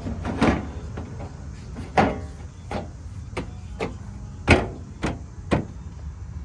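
Replacement sheet-metal body panel knocking and clunking against an old GMC truck's body as it is held up for a test fit. There are about eight sharp knocks at irregular intervals, the loudest about four and a half seconds in, over a steady low rumble.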